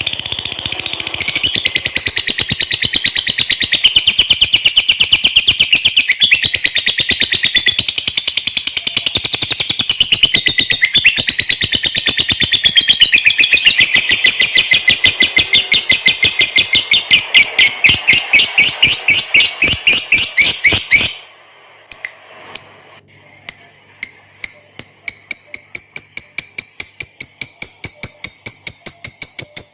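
Lovebird 'ngekek': a long, fast rattling chatter of repeated high notes, loud and unbroken for about twenty seconds. After a brief pause it starts again as separate notes that speed up into another fast chatter.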